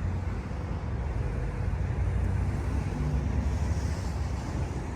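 Steady low vehicle rumble, with wind buffeting the microphone.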